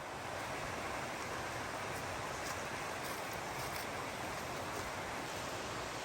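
A river's water rushing over rocks, a steady even rush with no let-up.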